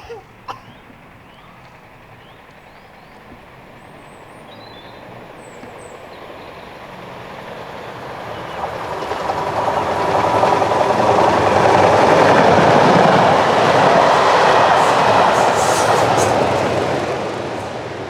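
Class 37 diesel locomotive with a test train approaching and passing, its English Electric V12 engine and wheels on the rails growing louder over several seconds, loudest in the second half, then starting to fade near the end.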